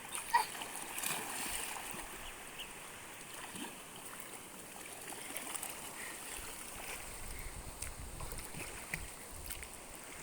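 Faint steady rush of flowing stream water, with a few small clicks scattered through it.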